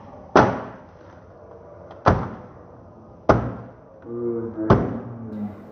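Four sharp knocks, spaced one to two seconds apart, each dying away quickly.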